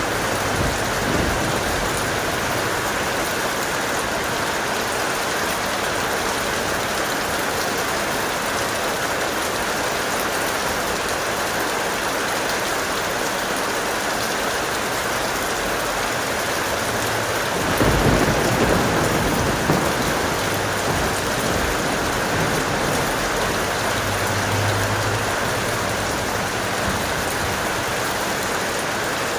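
Steady heavy rain falling, with a low rumble of thunder swelling up a little past halfway and fading within a couple of seconds.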